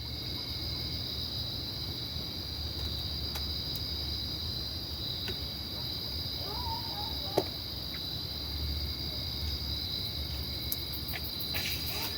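Crickets chirping in a steady, high, unbroken trill over a low hum, with a single sharp click about seven seconds in.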